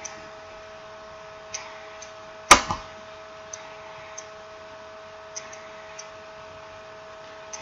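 Small clicks and taps of a smartphone and its parts being handled during reassembly, with one sharp, loud click about two and a half seconds in, over a faint steady hum.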